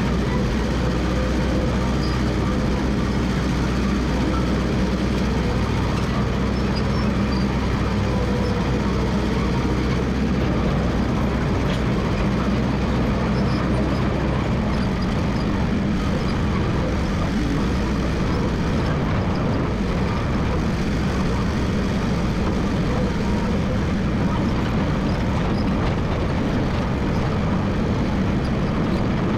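Massey Ferguson MF 300 crawler dozer engine running steadily while working. Its low hum changes character about halfway through.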